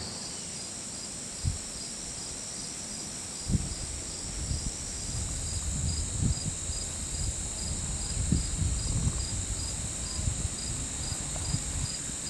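Evening insect chorus of crickets: a steady high trill with a chirp pulsing about two to three times a second. From a few seconds in, irregular low rumbles and bumps sound under it.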